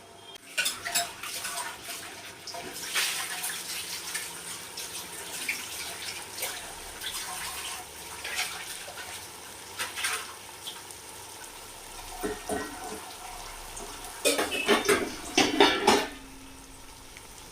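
Metal cooking pot and utensils clinking and clattering, many separate sharp clinks over a steady hiss, with a louder run of clattering near the end.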